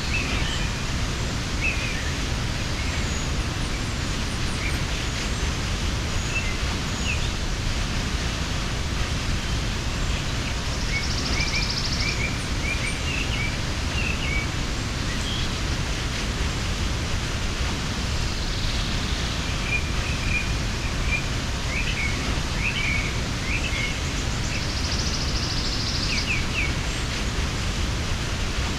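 Waterfall rushing steadily, with small birds chirping on and off over it and two short, high buzzing calls, near the middle and near the end.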